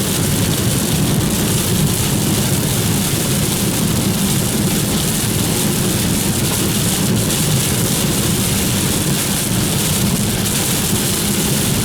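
Steady noise inside a car driving through heavy rain: rain on the car's body and tyres running on the wet road.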